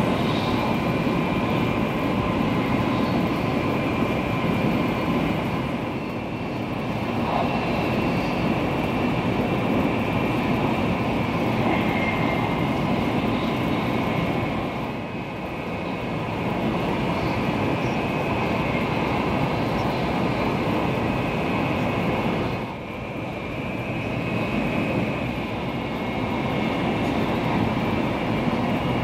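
Cabin noise of a THSR 700T high-speed train running along the line, heard from inside the passenger car: a steady rushing noise with a faint, steady high whine. The level dips briefly three times.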